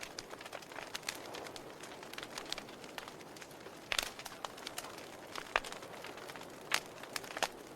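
Wood fire in a fireplace crackling, with irregular sharp pops over a soft steady rush of flames; the loudest pops come about halfway through and near the end.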